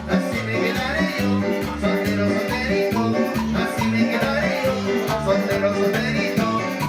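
Live Latin dance music from a keyboard-led band, with a steady, rhythmic bass line under melody.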